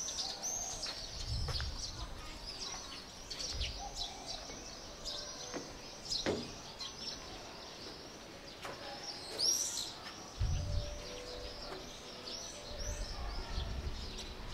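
Many small birds chirping in a steady chatter of short, high, overlapping calls, with a few brief low rumbles in the background.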